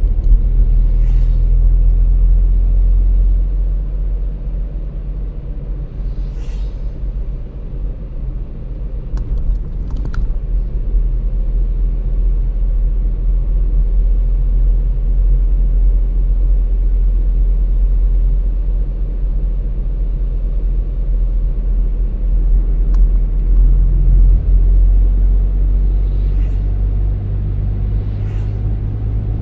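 Car driving along a road: a steady low rumble of engine and tyres, with the engine note changing at about four seconds in and again near the end, and a few faint brief hisses.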